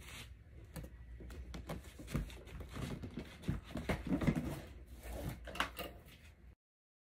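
Irregular clicks, taps and rustling from a Hoover PowerDash Pet carpet cleaner and its packaging being handled. The sound stops abruptly about six and a half seconds in.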